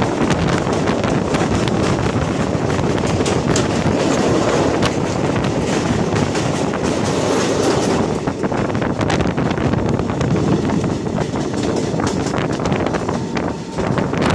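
A passenger train running on the broad-gauge line, heard from a coach window: a steady loud rolling noise with the wheels clattering over the rails in many quick clicks.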